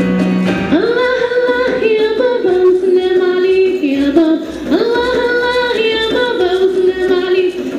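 A woman singing a melody in a high voice, scooping up into long held notes; the same phrase is sung twice, about four seconds apart.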